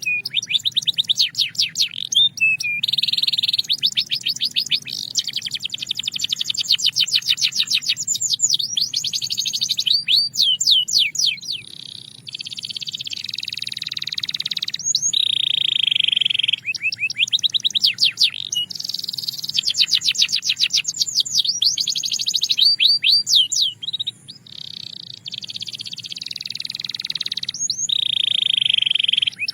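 Belgian canary singing a long, loud song of rapid trills. Runs of fast repeated notes alternate with smoother, sustained rolls, broken by a few short pauses.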